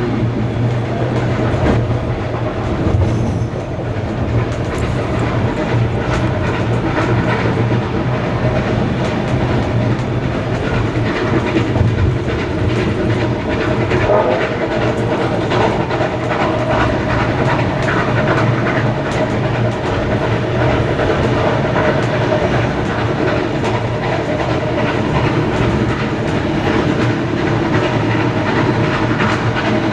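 A steam-hauled passenger train running along the line, with a steady rumble and the wheels clicking over the rail joints.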